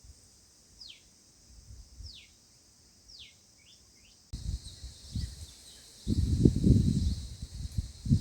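A bird giving short high chirps that fall in pitch, about one a second, then fainter chirps. Low rumbling thuds come near the end and are the loudest sound.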